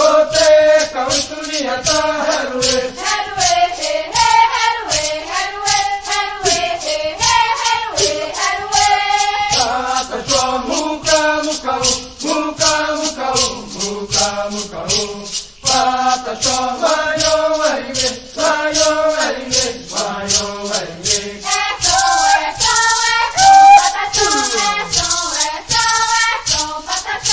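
A chanted song sung over a shaken rattle that keeps a steady beat of about three shakes a second.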